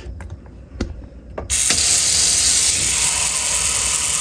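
A few small handling clicks, then about a second and a half in a kitchen tap is turned on and water runs in a steady, loud hiss, filling a container.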